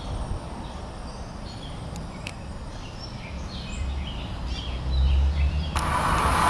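Small birds chirping over a low rumble. About six seconds in, a sudden loud rush of a passing train breaks in.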